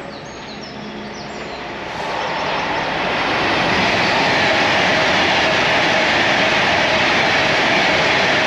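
A train passing through the station. The rushing noise of wheels and air builds over the first two seconds or so, then holds loud and steady.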